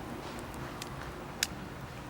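Wood campfire crackling, with a few sharp pops; the loudest comes about a second and a half in. Underneath is a steady low background rumble.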